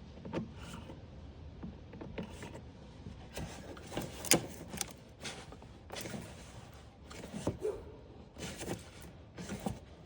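Irregular clicks, knocks and scrapes of hand tools working on engine parts, the sharpest knock about four seconds in.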